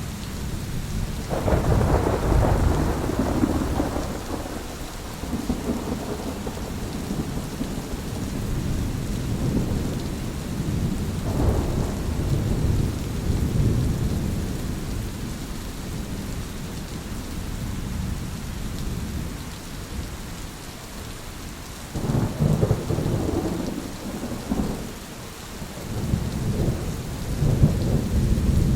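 Thunderstorm: steady rain with long rolling rumbles of thunder. A heavy peal builds about a second and a half in, and further rolls swell around halfway and near the end.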